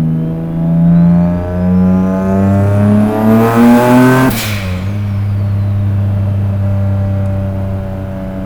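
Turbocharged Nissan 350Z V6 accelerating hard for about four seconds, its note climbing with a rising turbo whistle over it. The throttle then snaps shut with a short burst of hiss, and the whistle winds down as the engine settles to a steady lower note.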